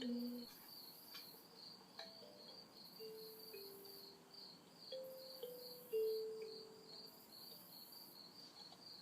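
Night insects trilling steadily in a fast pulsing chirr, with a higher hiss that swells and fades every couple of seconds. Over it, soft humming of a slow melody: a few held low notes that step up and down.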